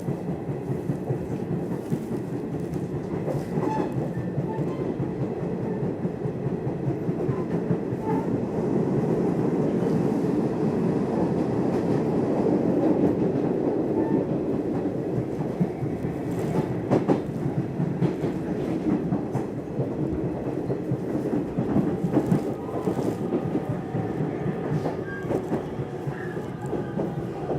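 Nishitetsu commuter train running along the line, heard from inside the passenger car: a steady rumble of wheels on rails, with occasional clicks over rail joints. A thin whine comes in near the end.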